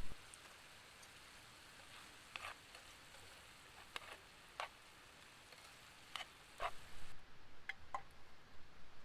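Wood fire crackling, with sparse sharp pops over a faint hiss.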